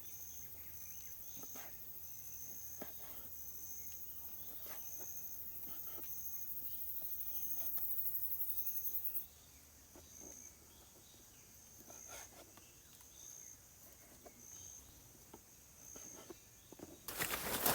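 Insects calling: a high chirp repeats about once or twice a second, over a very high buzz that grows louder and then stops suddenly about nine seconds in. Near the end a loud rustling noise starts.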